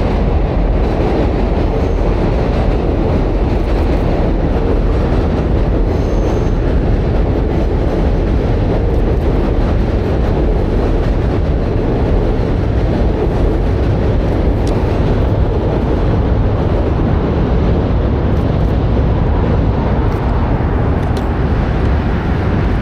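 Steady, loud rumble of a moving train, unchanged throughout.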